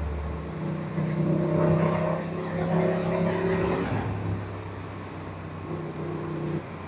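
Aprilia RS 457 motorcycle's parallel-twin engine running at a steady speed under a rushing noise, its note shifting lower about four seconds in.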